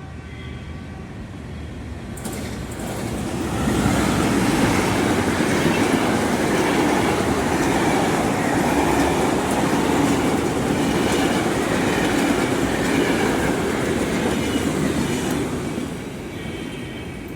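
Passenger train passing close by, the rolling noise of its wheels on the rails swelling over the first few seconds, staying loud, then dropping off near the end.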